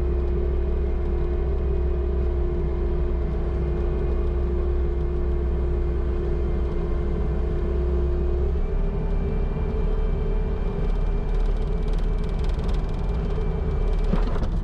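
Bobcat T650 skid steer's diesel engine running steadily under load, with a steady whine that steps down slightly about halfway through. A few knocks and clatters come near the end.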